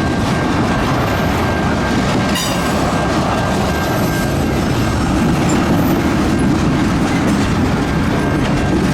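Freight train of tank cars rolling past at close range: a steady rumble of steel wheels on rail with clickety-clack over the rail joints and a thin, steady high wheel squeal.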